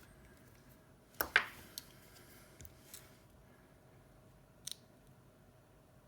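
A few short clicks and scrapes of small repair tools against a phone's parts during an iPhone display replacement. The loudest is a quick double click about a second in, followed by a few fainter ticks, over a faint steady hum.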